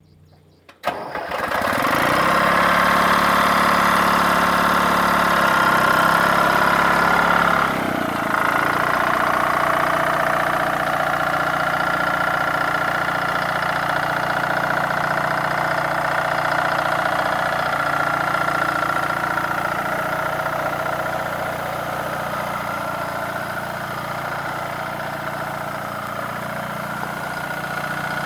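The 1959 John Deere 435-D's GM 2-53 two-cylinder two-stroke diesel running, coming in abruptly about a second in. About eight seconds in its note changes and drops slightly, then it runs at a steady idle.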